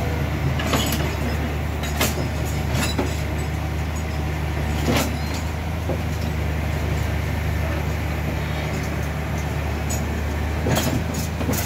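A heavy truck engine runs steadily at low revs, with a few sharp knocks at scattered moments.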